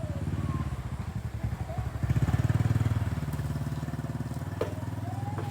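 Small motorcycle engine running, revved up about two seconds in and then settling back, with a couple of sharp clicks near the end.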